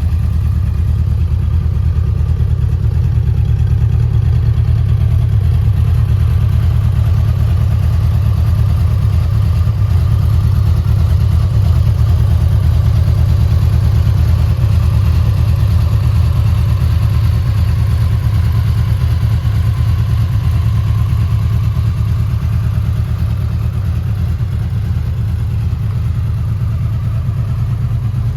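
A 2019 Honda VFR800F's liquid-cooled V4 engine idling steadily, with a deep, even exhaust note.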